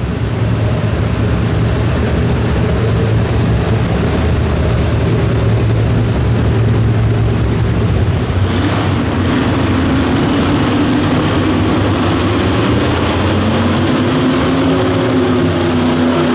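Pro Street two-wheel-drive pulling truck's engine running hard at high revs during a pull, loud and unbroken; about halfway through its pitch climbs and then holds higher.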